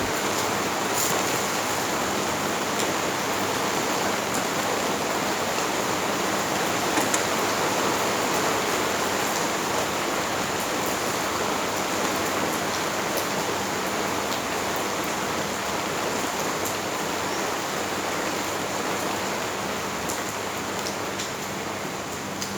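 Steady rain falling, with scattered drops ticking on hard surfaces.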